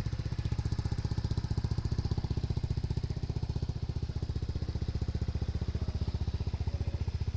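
Dong Fang 200SST scooter's engine running steadily with a fast, even beat, with no revving.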